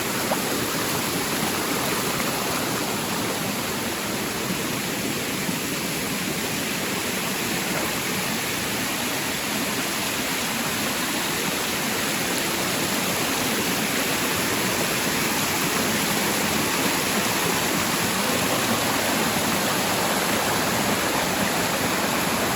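Waterfall pouring: a steady, very noisy rush of falling water that covers every other sound.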